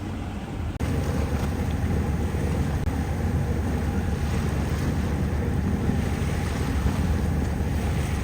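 Sailboat under way on its engine: a steady low engine drone mixed with the rush of wind and water. About a second in, the sound cuts and comes back louder.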